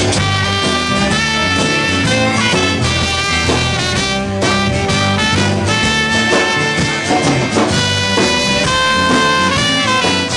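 A band playing a song with horns and a drum kit, held notes over a steady beat.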